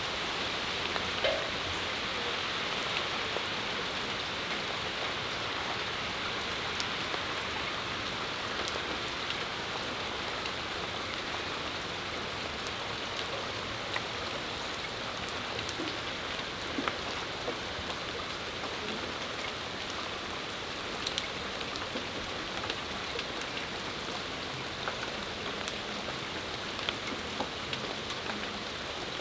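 Steady rain shower falling on a patio, an even hiss with scattered sharper drips and taps.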